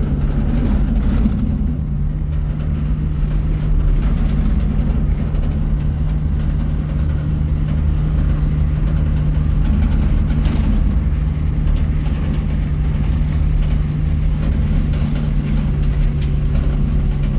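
A motor vehicle's engine running steadily at an even pitch, with a constant low hum and road or motion noise.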